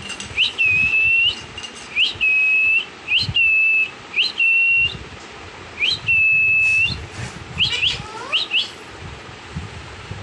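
Pet parrot whistling: five high whistles, each a quick upward swoop into a steady held note ending in a short flick upward, then a few quick chirps near the end.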